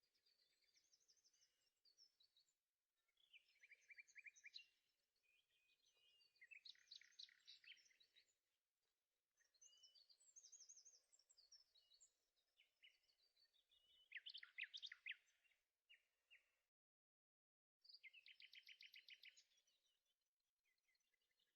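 Faint songbird song: short phrases of fast repeated chirps and trills, coming every couple of seconds, with the sound cutting out completely for about a second near the end.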